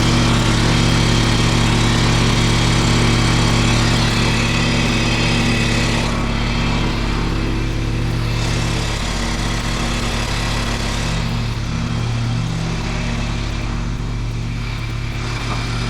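Gasoline pressure washer engine running steadily at speed just after an electric start, with a hiss above it that eases off and comes back a few times.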